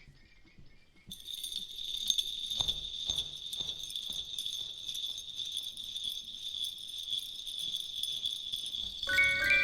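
Steady jingle-bell shaking, starting about a second in, over faint low knocks. Chiming mallet notes come in near the end.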